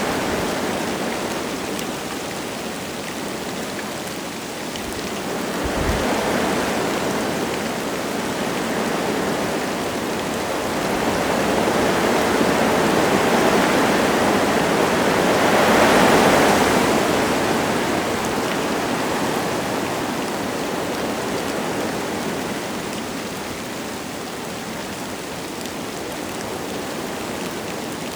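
Wind gusting through forest trees with light rain falling, a steady rushing that swells twice and is strongest a little past halfway, then eases. A brief low thump about six seconds in.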